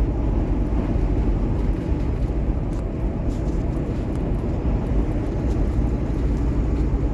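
Semi truck cruising at highway speed, heard from inside the cab: a steady low rumble of engine and road noise.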